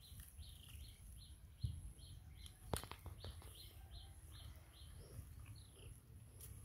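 A bird calling a steady run of short, high chirps, about three a second, over a faint low rumble. Two sharp knocks come a second apart near the middle.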